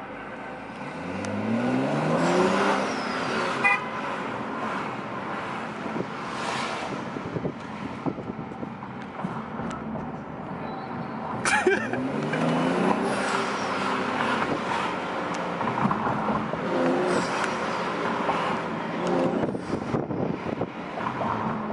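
BMW F30 335i's turbocharged inline-six, with its mid muffler deleted, accelerating hard twice, the exhaust pitch rising through each pull, about a second in and again about halfway through, over steady road noise.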